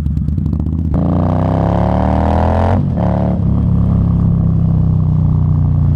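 Indian Scout Bobber's V-twin engine pulling away: it runs steadily, then about a second in the revs climb in first gear. Just before halfway a quick gear shift drops the revs, and it carries on under steady throttle.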